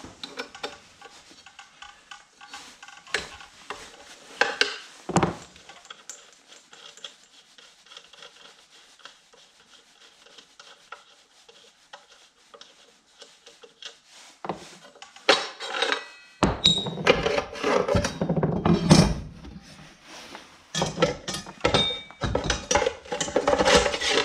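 Hands and tools working on a concrete saw's metal parts: scattered clicks and rubbing, turning into a denser run of metallic clatter in the last several seconds.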